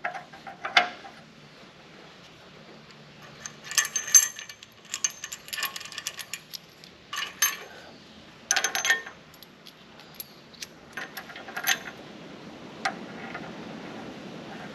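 Steel bolts and nuts clinking against each other and against the tractor's loader mounting bracket as a bolt is slipped in and a nut fitted by hand, in scattered bursts of small metallic clicks and clinks.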